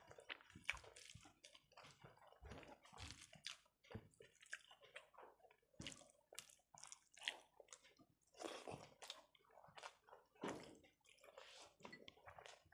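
Faint mouth sounds of a person eating rice and egg curry by hand: wet chewing and lip smacks with soft squishes of fingers mixing rice on the plate, coming as a string of short, irregular smacks and clicks.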